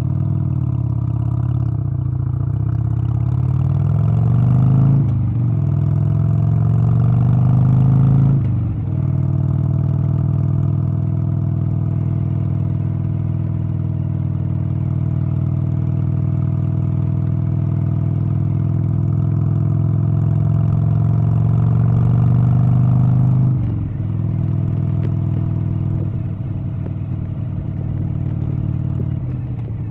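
A vehicle engine accelerating through the gears. Its pitch climbs, drops at a shift about five seconds in and again about eight seconds in, then holds steady at cruise. It falls back a little after about twenty-three seconds.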